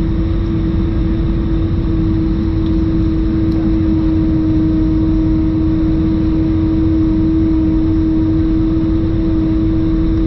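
Airbus A320-214's left CFM56 engine whining inside the cabin during descent: one steady tone held over the deep cabin rumble. The uploader heard this whine only in climb and descent and could not explain it.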